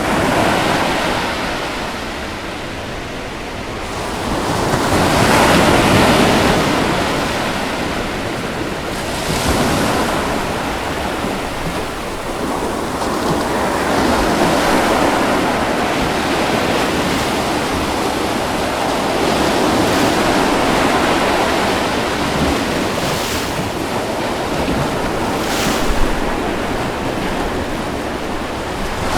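Ocean waves breaking and washing on a beach, a steady surf wash that swells and eases every few seconds, with a brief sharper splash near the end.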